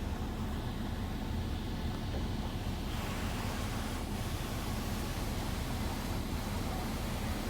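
Steady rushing of a car wash's water spray and machinery over the car, heard from inside the car's cabin with a low rumble underneath. The hiss grows brighter about three seconds in.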